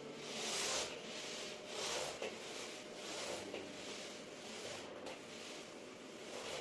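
Something rubbed across a surface in a few separate strokes, the strongest about half a second in and weaker ones following.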